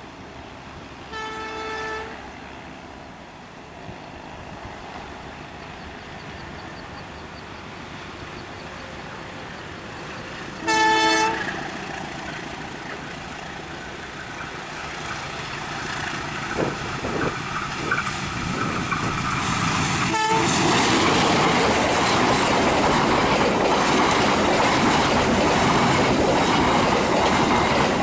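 Diesel locomotive horn sounding twice as a passenger train approaches, a short blast and then a longer, louder one. The train's running noise then builds into a loud, steady wheel-and-rail roar as the coaches pass close by.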